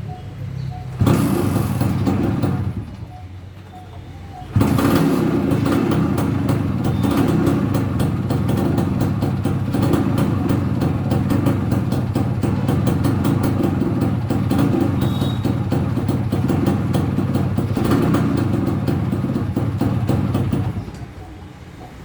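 Kawasaki KB100 two-stroke single-cylinder engine running through its exhaust: a short burst about a second in, then a long steady run from about four and a half seconds in that cuts off shortly before the end.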